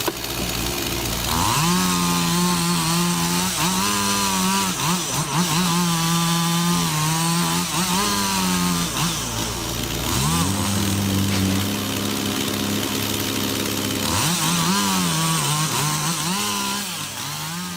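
Chainsaw engine running and cutting into wood, its pitch repeatedly rising as it revs and dipping as it bogs down in the cut.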